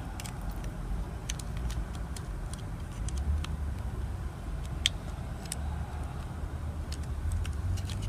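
A steady low rumble in the background, with scattered light clicks of plastic action-figure parts being handled and pushed together.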